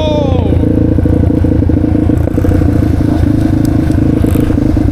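Motorcycle engine running steadily, with a fast, even firing pulse.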